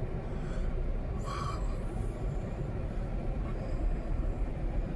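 Steady low rumble of a heavy snowplow's diesel engine working through deep snow, with a brief higher sound a little over a second in.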